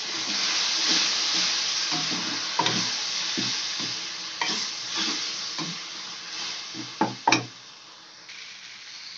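Tomato purée sizzling as it fries in hot oil and spices in a kadhai, stirred with a slotted spatula that scrapes and knocks against the pan. The sizzle is loudest at first and dies down over the seconds, with a pair of sharper knocks near the end.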